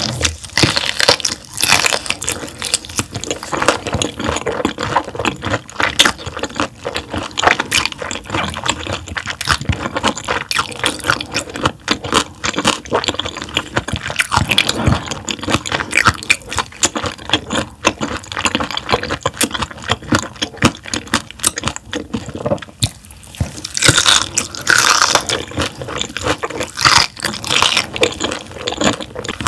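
Close-miked chewing of bone-in raw gizzard shad sashimi: a dense run of crisp crunches and wet mouth sounds as the small bones are chewed.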